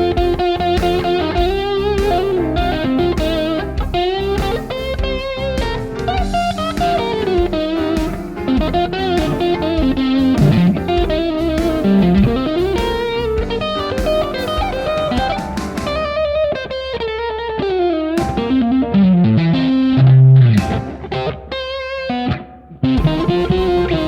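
Electric guitar playing blues lead lines on a 2005 Fender Deluxe Stratocaster with N3 Noiseless stacked-humbucker pickups, with string bends and vibrato; the playing dips briefly near the end.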